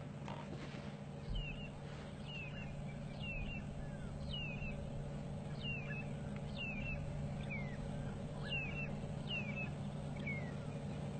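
A bird calling over and over in short, high, downward-sliding chirps, about one or two a second, over a steady low hum.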